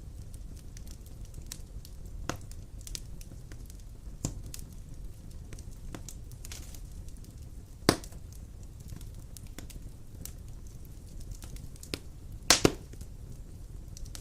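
Wood fire burning in a fireplace: a low steady rumble with scattered crackles and a few sharp pops, the loudest about eight seconds in and a quick double pop near the end.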